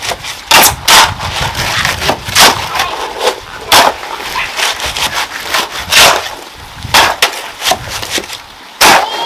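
A hand tool at work, about seven sharp knocks at irregular intervals with scraping between them.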